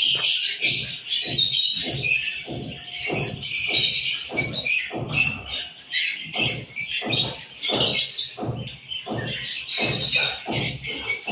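Many small aviary birds chirping at once, with frequent short thumps throughout.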